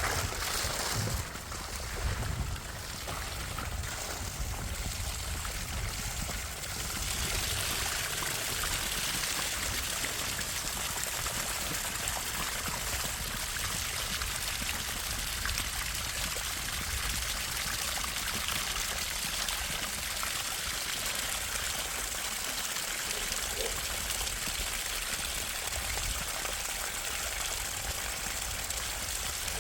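Water running in a steady trickle that grows a little louder about seven seconds in.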